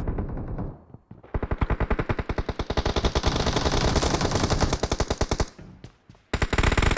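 Automatic gunfire in a shooter video game: one long burst at about ten rounds a second lasting roughly four seconds, then a short pause and another burst near the end.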